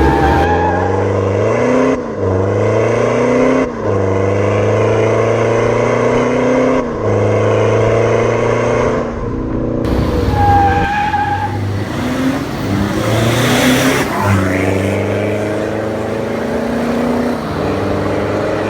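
Exhaust of a 2016 Mitsubishi Montero fitted with an aftermarket exhaust system, the engine running with its revs rising and falling several times.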